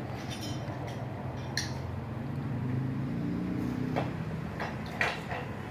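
A few light clicks of metal engine parts being handled, over a steady low background hum.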